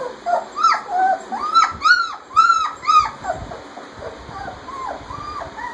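16-day-old German Shepherd puppies whining and squealing in a string of short rising-and-falling cries, louder in the first three seconds and fainter toward the end: hungry pups crying as they seek to nurse.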